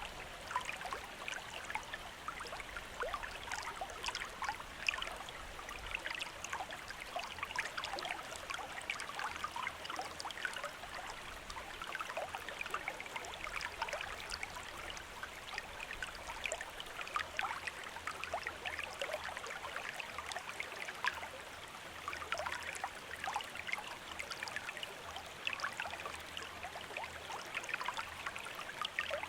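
Shallow stream running and babbling, a steady rush of water dotted with small splashes and gurgles.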